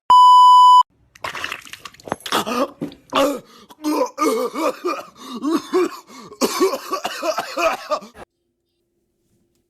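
A censor bleep (a steady beep under a second long) at the start, followed by several seconds of a person coughing and making vocal noises over a video-chat connection. The sound cuts off abruptly about eight seconds in.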